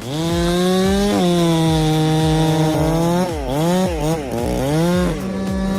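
Chainsaw running at high revs. It climbs to speed at the start and holds a steady high note, then about three seconds in its pitch dips and recovers several times before steadying again.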